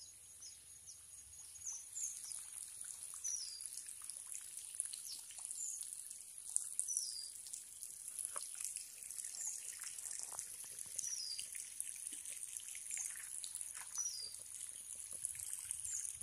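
Rural outdoor ambience: a bird repeating a short, falling, high-pitched call every second or two over a steady high hiss, with faint scattered clicks.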